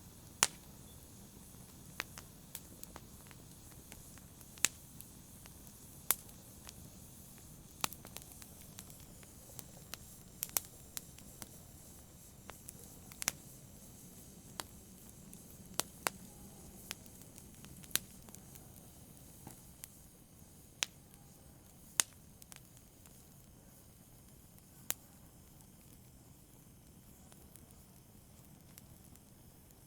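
Wood fire crackling in a fireplace: irregular sharp pops and snaps over a soft steady hiss, fewer pops in the last few seconds.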